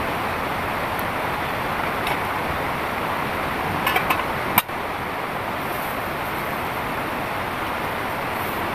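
Heavy rain falling in a steady downpour. About halfway through come a few sharp clicks, the last one the loudest.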